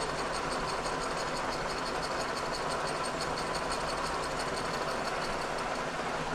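Kearney & Trecker 2HL horizontal mill under power feed, its insert cutter milling cast iron. A steady cutting noise with a rapid, even, high-pitched pulsing from the cutter. The pass is chattering.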